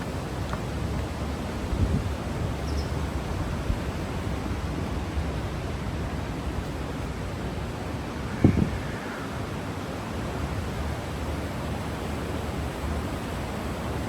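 Steady rushing of a mountain stream flowing through the canyon, with a short low thump near two seconds and a louder one about eight and a half seconds in.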